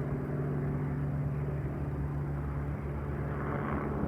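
A steady, low engine hum: a motor running continuously at an even pitch.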